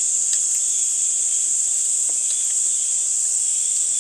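Steady, high-pitched chorus of insects such as crickets, continuous and even, with a couple of faint clicks.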